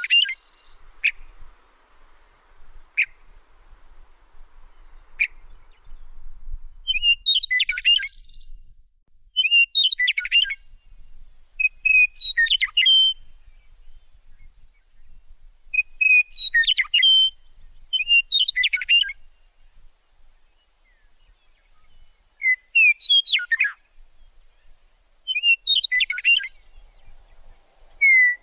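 A songbird singing short phrases of quick, high chirping notes, repeated every two to three seconds, with a few single thin notes near the start.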